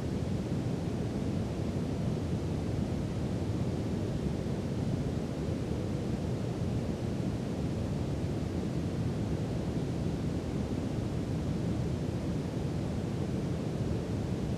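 Brown noise: a steady, deep, even rumble of hiss with no tones or changes.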